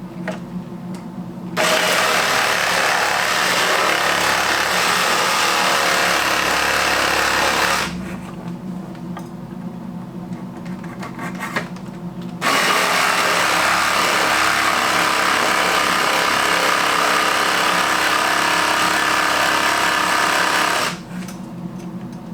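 Electric jigsaw running as it cuts, in two long runs of about six and eight seconds with a pause of a few seconds between them.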